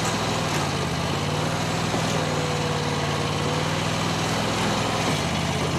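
Starbox SV480 mini skid steer's engine running steadily while it holds an overweight lift, its note shifting slightly twice. A faint higher whine sounds for a couple of seconds in the middle.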